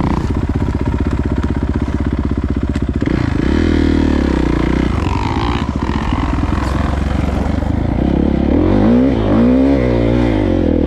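Dirt bike engine running as it rides through snow, the revs rising and falling with the throttle about three seconds in and again more sharply near the end.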